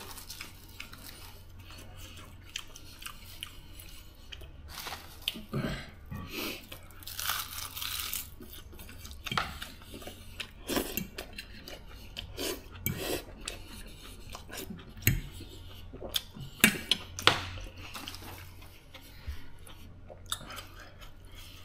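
A person chewing food, with scattered clinks and scrapes of a fork and fingers on a plate.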